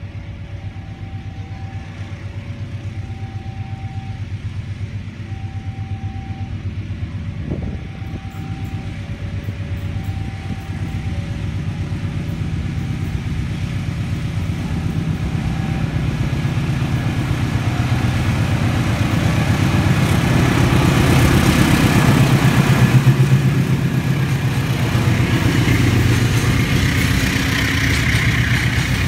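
A diesel locomotive hauling a freight train approaches and passes. Its engine rumble grows steadily louder to a peak about two-thirds of the way through, then the freight wagons are heard rolling by on the rails. For the first half, a two-note electronic warning tone alternates about once a second, then stops.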